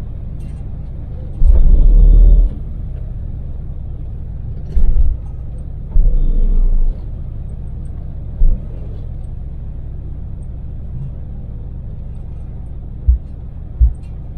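Daewoo Damas mini van's small three-cylinder LPG engine running steadily at expressway speed with road noise, a continuous low rumble. Several loud low thumps or buffets break through, one lasting about a second near the start, others around the middle, and two short ones near the end.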